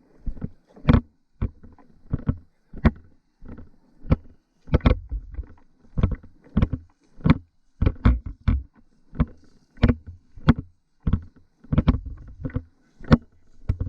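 Footsteps of someone walking at a steady pace, about two steps a second, each a short knock on the ground.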